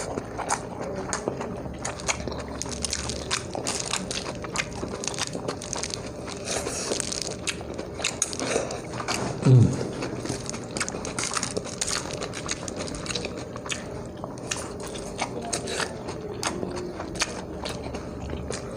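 Close-up eating sounds: biting and chewing, with frequent small wet clicks and smacks of the mouth. A short, loud, low sound falling in pitch comes about halfway through.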